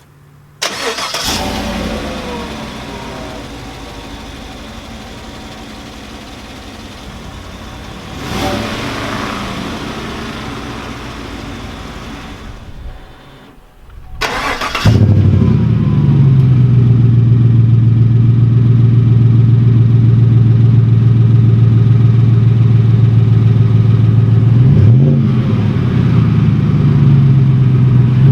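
Chevrolet Silverado 5.3L V8's exhaust starting with a flare about a second in that settles toward idle, with another surge near eight seconds. After a short break comes a much louder, steady, low idle, blipped twice near the end.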